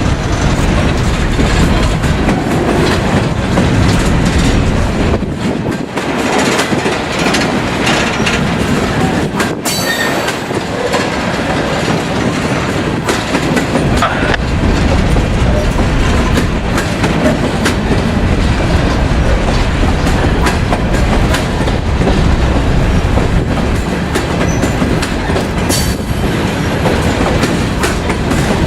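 Freight train cars rolling past close by: a steady, loud rumble of wheels on rail with repeated clicking over the rail joints and some wheel squeal.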